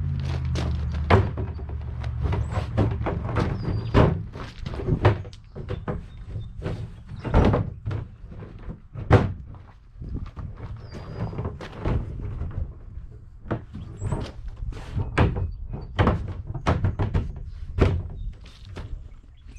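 Plastic parts of a porta-potty knocking and thudding as the seat top is worked into line on the bowl: many irregular knocks and thunks, some sharper than others.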